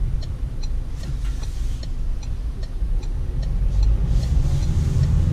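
Peugeot Partner's turn-signal indicator ticking steadily, a little over two ticks a second, over the low rumble of the running car inside the cabin.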